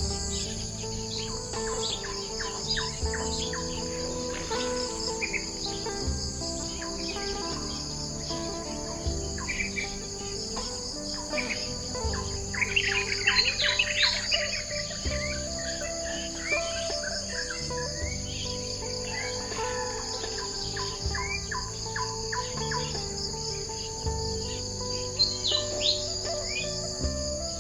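Birds chirping and twittering over a steady, high insect drone, with the bird calls busiest and loudest around the middle. Soft background music with slow chord changes runs underneath.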